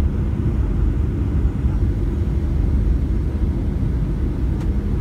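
Steady cabin noise inside a Boeing 737-700 airliner on approach: a low, even rumble of airflow and its CFM56 engines. There is a faint click near the end.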